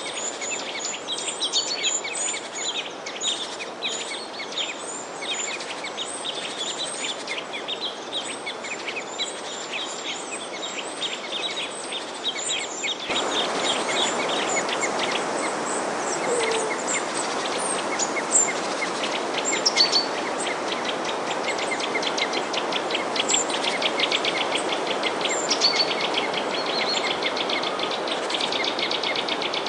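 Many small birds chirping and twittering in quick, short high calls over a steady background hiss. About 13 seconds in, the background noise abruptly becomes louder while the chirping goes on.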